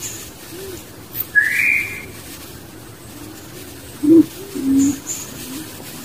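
Birds calling: a short, loud rising whistle about a second and a half in, then two low hollow notes around four seconds in. Faint repeated low calls run in the background.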